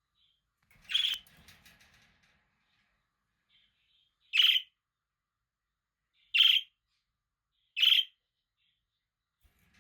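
Budgerigar giving four loud, short, sharp calls, with faint soft chattering in between.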